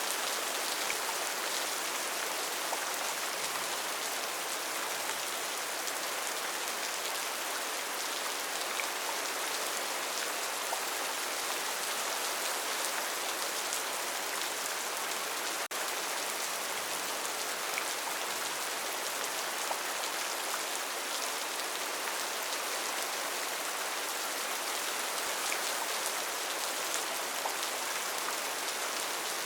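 Steady rainforest rainfall: a continuous, even hiss of rain with scattered individual drops pattering through it.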